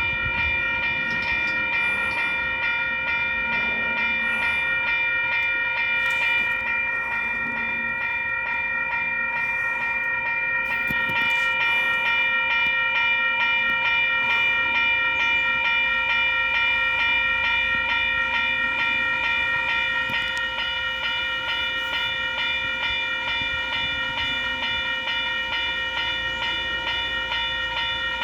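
Western-Cullen-Hayes electronic level crossing bells ringing continuously, a fast, even clanging tone, while a train rumbles through the crossing.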